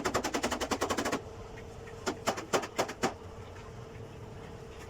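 Carpentry tool noise: a rapid rattle of clicks that stops about a second in, then a handful of separate sharp knocks a second later, over a steady hum.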